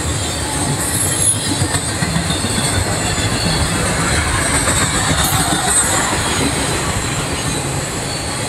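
Empty intermodal freight cars rolling past close by: a steady rumble of steel wheels on the rails, with brief high-pitched wheel squeals about a second in and again past the middle.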